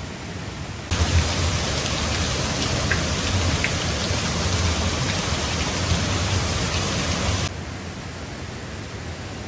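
Heavy rain pouring steadily over a constant rush of water. About a second in, a much louder downpour cuts in abruptly, then drops away just as suddenly about six and a half seconds later.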